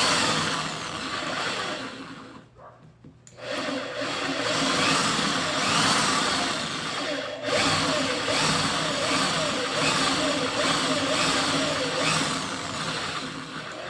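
Small electric mini drill press running, drilling small nozzle holes in metal with a steady whine. It cuts out for about a second near the start, briefly dips again midway, then runs on.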